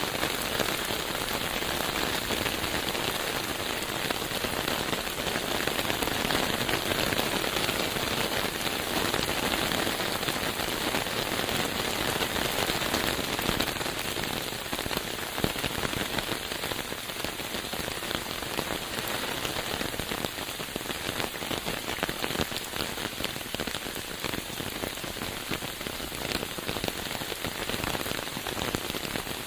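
Steady rain falling, a dense spread of drops hitting surfaces close by, a little lighter in the second half.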